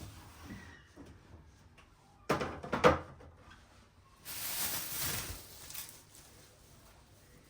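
Household handling sounds: a quick cluster of knocks and clatters a little over two seconds in, then a second or so of hissing, rustling noise.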